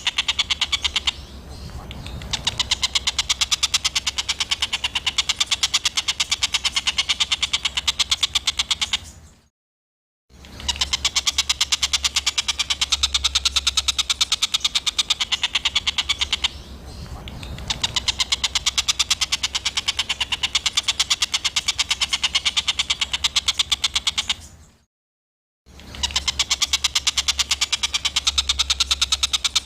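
Looped bird tutor recording of harsh, rapid-fire chattering birdsong, a fast run of grating notes over a steady low hum. It breaks off into two short silences, about a third of the way in and near the end, as the loop restarts.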